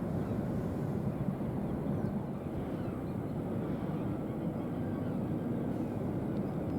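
Steady low engine rumble, even in level with no distinct beats or changes.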